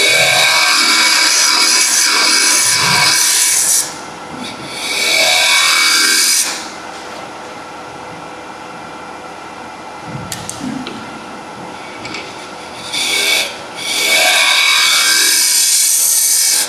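Wood lathe with a turning tool cutting into the spinning wooden workpiece, boring in toward the centre to depth. The cutting comes in loud hissing bursts: a long one at the start, a shorter one around five seconds in, and another long one near the end. Between the bursts the lathe runs more quietly.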